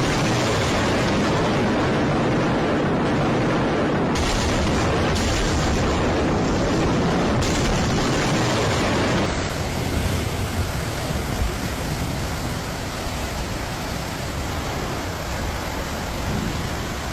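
Steady, loud roar of typhoon wind and rain. About nine seconds in it cuts to a quieter rushing noise.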